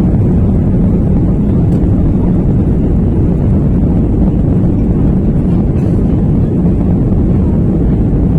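Airliner cabin noise heard from inside the passenger cabin: a loud, steady low rumble of the engines and rushing air, typical of the takeoff run or climb.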